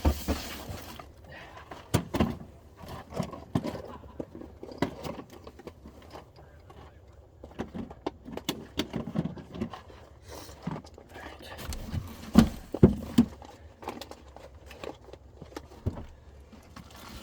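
Gear being rummaged and handled: scattered sharp clicks, knocks and thunks with rustling between, the loudest knocks a little past the middle.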